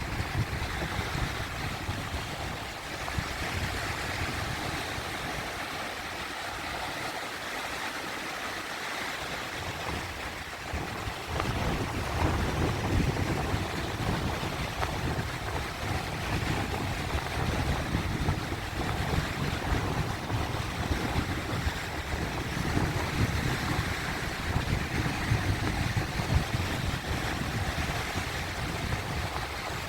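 Sea waves washing over rocks: a steady rush of surf, with a deeper rumble that thins out for a few seconds and then comes back stronger about a third of the way in.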